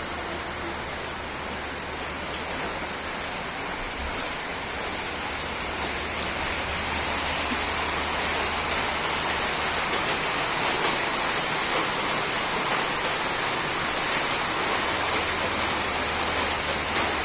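Steady rushing hiss of water, growing a little louder about six seconds in.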